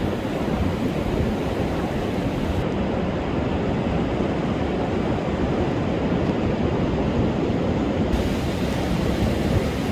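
Heavy storm surf breaking and washing on a sandy beach, a steady loud rush with a deep rumble, mixed with wind buffeting the microphone.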